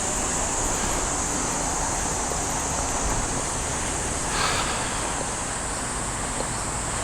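Steady outdoor background noise with wind on the microphone and a constant high-pitched hiss over it. There is a brief louder rustle about four and a half seconds in.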